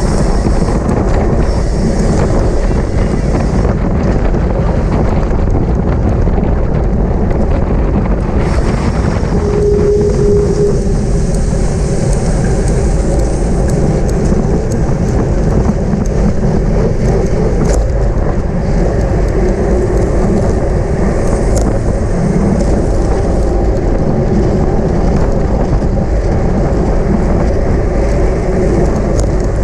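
Wind rushing over the camera microphone on a moving racing bicycle: a loud, steady rush, heaviest in the low end.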